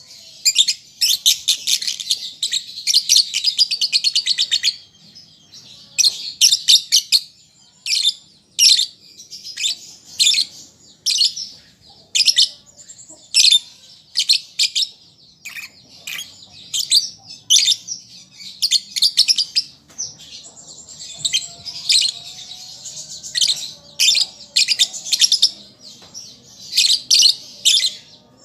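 Young lovebird still learning its song, chirping: sharp, high chirps in quick irregular series, with longer runs of rapid chatter near the start and again about three-quarters of the way through.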